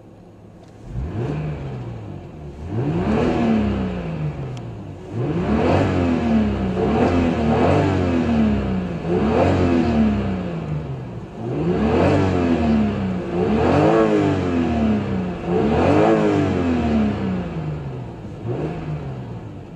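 Lexus car engine revved in repeated blips from idle, about ten times, each rev rising in pitch and dropping back, the first and last revs lighter than the rest.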